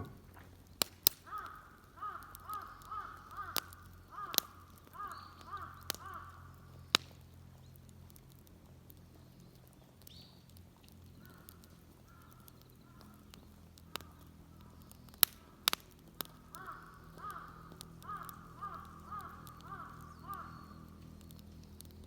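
A crow cawing in quick runs of about two calls a second, three bouts with a fainter one in the middle. Sharp snaps and clicks sound now and then throughout, some louder than the calls.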